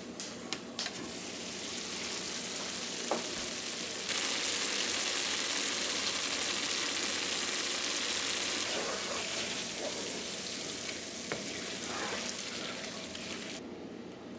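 Food sizzling as it fries in a pan: a steady hiss that gets louder about four seconds in and stops suddenly near the end, with a few light clicks at the start.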